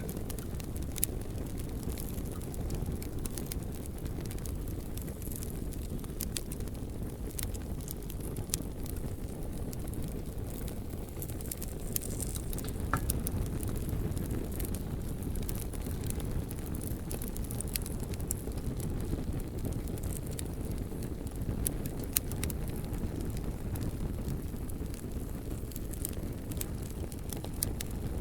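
Campfire burning, with scattered sharp crackles and pops from the burning wood over a steady low rumble.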